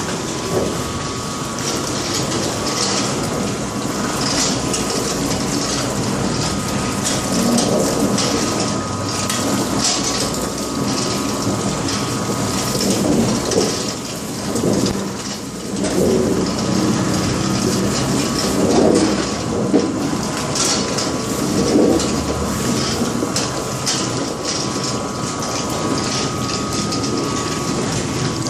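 Potato-washing machine running with a load of papa criolla: rushing water and small potatoes tumbling and knocking irregularly, over a steady machine whine.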